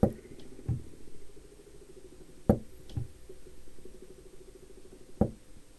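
Five dull knocks or taps at uneven spacing, over a faint steady low hum.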